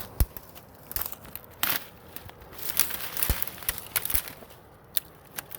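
Footsteps crunching and crackling through dry ground litter and brush, in uneven steps with sharp snaps.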